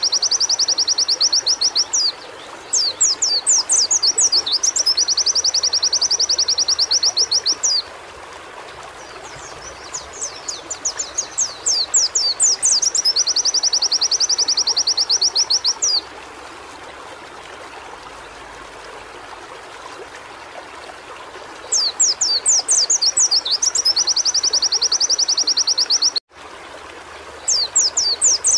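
White-eye (pleci) singing in repeated high-pitched songs of several seconds each, each opening with a few separate sweeping notes and running into a fast, even trill. Short pauses fall between the songs, over a faint steady background hiss, and the sound cuts out for an instant near the end.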